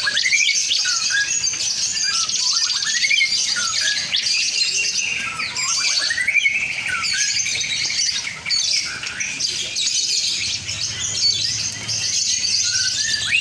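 Lovebirds singing: a continuous, dense, shrill chattering trill with quick rising chirps mixed in, unbroken throughout.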